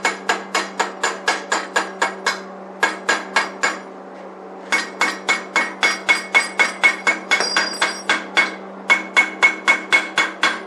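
Rapid metal-on-metal hammer strikes, about five a second in several runs with short pauses, each ringing briefly: a chipping hammer knocking slag off a fresh 7018 stick weld on the steel mill frame. A steady low hum runs underneath.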